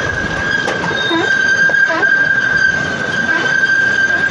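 Freight train's steel wheels squealing in one steady high tone over the rumble of the moving train.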